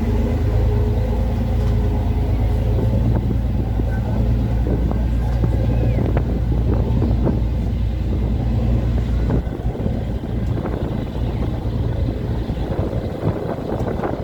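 Boat engine running with a steady low drone, mixed with strong wind buffeting the microphone. About nine seconds in the deep drone drops away and the rough wind noise takes over.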